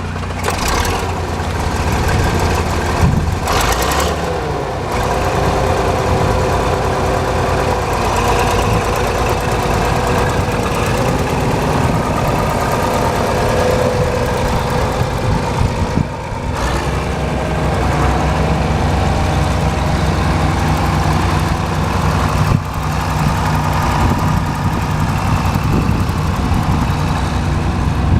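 A 1973 John Deere 4230 tractor's six-cylinder diesel engine running steadily at idle, with a slight change in its note about halfway through.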